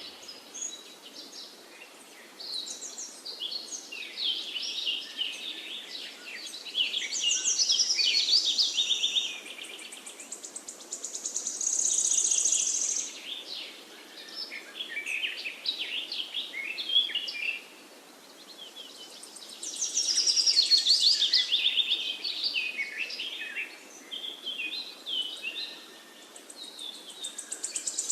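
Several small songbirds singing at once, with overlapping phrases of quick chirps and trills that swell louder several times.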